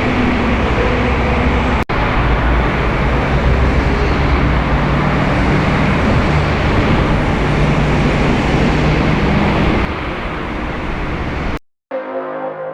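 Loud, steady vehicle engine and road noise with low engine tones beneath, broken by a brief cut about two seconds in. Near the end it stops abruptly and music starts.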